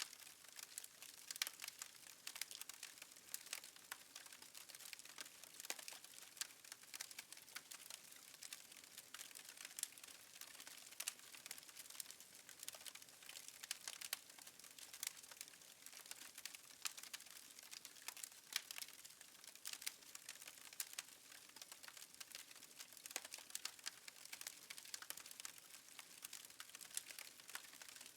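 Wood fire crackling in a fireplace: a soft steady hiss with frequent, irregular sharp pops and snaps.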